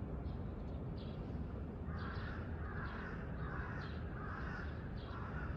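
A crow cawing about five times in an even series, starting about two seconds in, over a low steady rumble.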